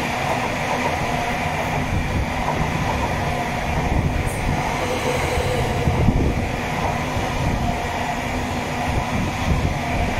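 Stadler FLIRT electric multiple unit passing close alongside the platform: a steady rumble of wheels on rail with a faint motor hum, and a couple of brief knocks about four and six seconds in.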